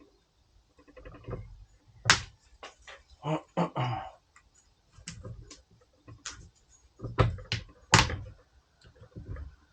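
A string of sharp metal knocks and clanks, about ten in all and irregularly spaced, loudest about two seconds in and near the end, with a short scraping stretch in between: tools and parts worked against the axle and suspension during CV axle removal.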